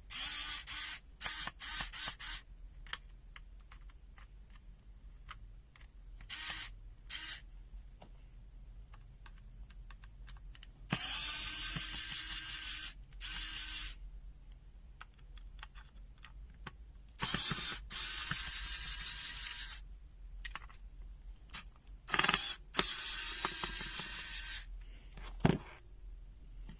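Hand work on a small plastic multimeter case and its parts: scattered sharp clicks and three rasping, ratchet-like bursts of two to three seconds each.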